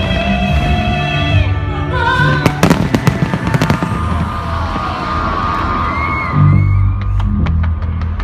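Fireworks going off over loud music with held, sung-like notes. The fireworks come as quick clusters of sharp bangs and cracks, once a few seconds in and again near the end.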